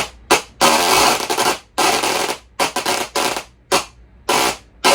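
Musical Tesla coil playing a song with its sparks: loud, buzzy electric-arc notes, some short stabs and some held for about a second, with brief gaps between them.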